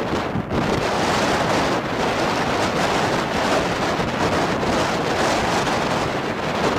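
Strong wind rushing and buffeting the microphone, a loud steady roar of noise with gusty flutter.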